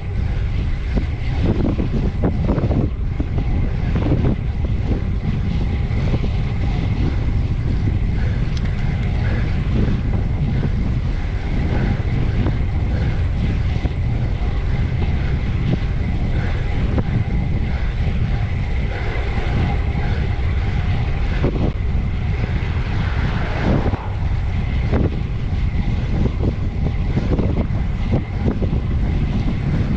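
Steady wind rush on the microphone of a camera mounted on a bicycle ridden at speed, strongest in the low end.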